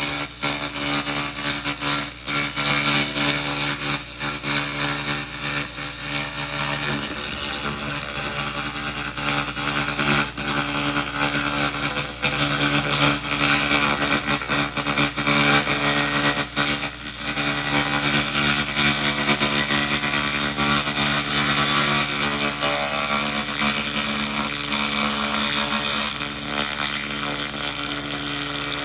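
2000-watt handheld laser rust remover firing on rusty metal: a dense, continuous crackling hiss with a few brief breaks, over a steady machine hum.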